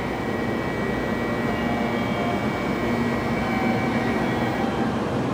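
A Tokaido Shinkansen train pulling out of the platform: a steady rumble with a faint motor whine, growing a little louder.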